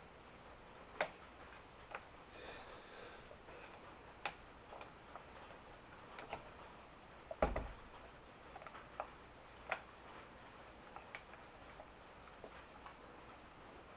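Small clicks and taps from hands and tools working on a chainsaw's choke, coming irregularly about once a second, with one heavier knock about seven and a half seconds in.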